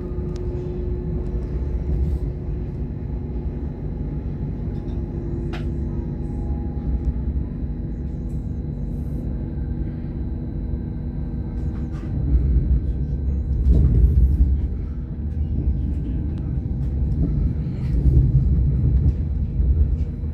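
Mariazellerbahn 'Himmelstreppe' electric multiple unit running along the narrow-gauge line, heard on board: a steady rumble of wheels on rail under a steady electric hum. From about twelve seconds in the running grows louder and rougher.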